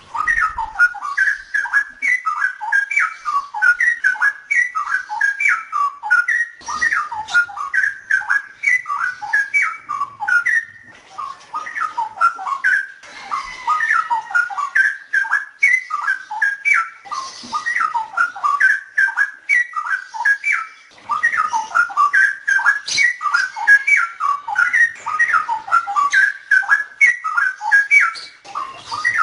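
Straw-headed bulbul (cucak rowo) singing: a long, continuous run of quick, rich whistled phrases with only brief pauses.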